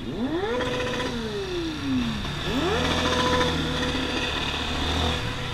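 Motorcycle engine revving twice: the pitch climbs quickly, holds briefly and then falls away, then climbs and holds again before settling to a steadier lower note.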